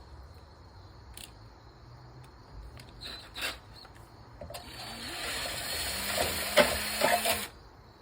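A few light clicks, then a handheld power drill running and drilling out a hole for about three seconds. It stops near the end.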